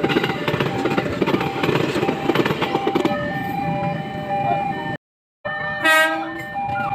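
A train running through the station with a loud rumble, a short ringing tone repeating about twice a second over it. The sound cuts out for a moment about five seconds in, and a train horn sounds briefly about a second later.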